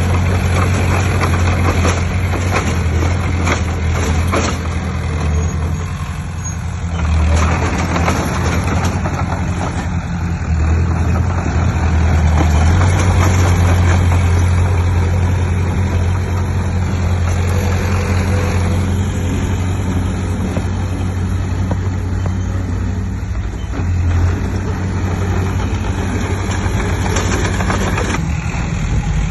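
Heavy diesel engines of a bulldozer and dump truck running under load, a deep steady drone with mechanical clatter that swells about seven seconds in and again from about twelve to fifteen seconds.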